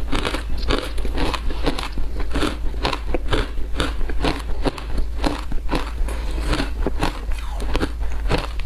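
Frozen matcha ice being bitten and chewed close to the microphone: a steady run of crunches, about three a second.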